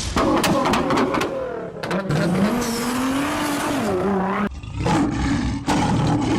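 A vehicle engine revving, its pitch rising and falling, in a few short edited cuts with abrupt changes about two seconds and four and a half seconds in.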